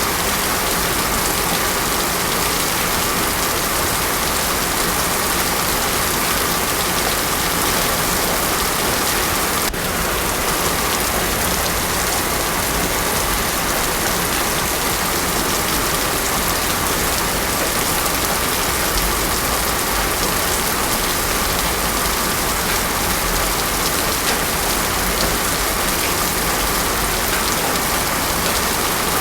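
Heavy rain falling steadily on a paved road, a dense, even hiss with no thunder.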